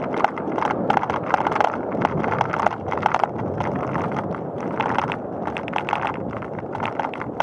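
Bicycle riding along a paved path: a steady rumble of tyres on the surface with quick, irregular clicks and rattles from the bike.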